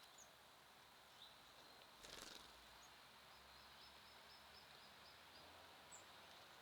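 Faint small songbirds chirping, with scattered single high chirps and a quick run of about eight short notes in the middle. There is a brief rustling burst about two seconds in.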